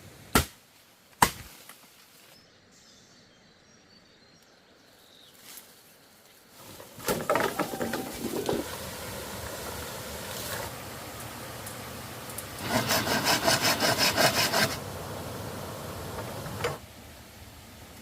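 Two sharp knocks, then bamboo being sawn by hand: rough rasping strokes, with a quick run of regular strokes a little past the middle.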